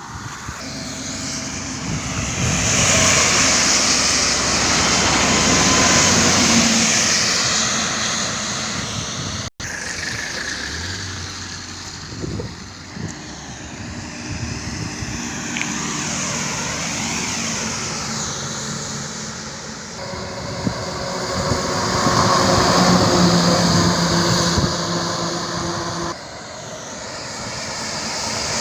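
Highway traffic: trucks and other vehicles passing, their engine drone and tyre and wind noise swelling and fading over several seconds at a time. The sound cuts off abruptly about ten seconds in and again near the end.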